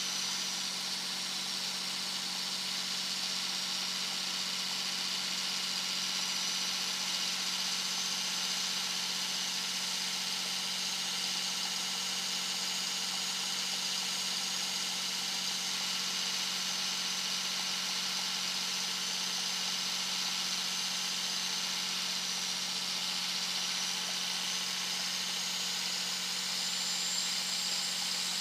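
2001 Dodge Ram 2500's Cummins inline-six turbo diesel running at highway speed, with a very loud high-pitched turbo whistle over the steady engine hum. The whistle drifts down and up in pitch with the throttle, climbing highest near the end.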